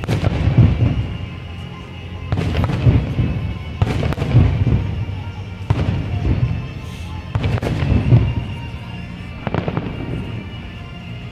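Aerial firework shells bursting: about seven loud booms at uneven intervals, each followed by a rolling low rumble.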